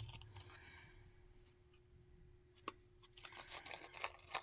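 Faint clicks and snips of a small hand clipper cutting the metal shanks off buttons, with one sharp click a little before the three-second mark and a quick run of clicks near the end.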